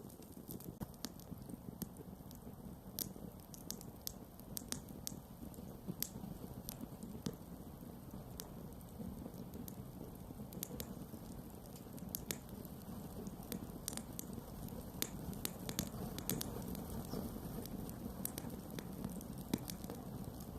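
Wood campfire burning: a steady low rush of flames with frequent, irregular sharp crackles and pops.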